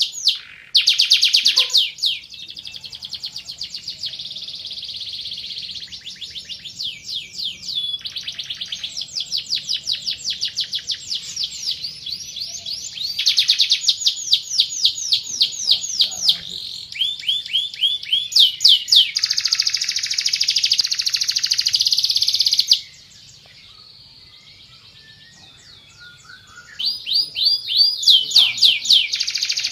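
Van Hesterling song canary singing long phrases of rapid rolling trills and repeated notes, changing pace from phrase to phrase. It pauses about 23 seconds in and starts again about three seconds later.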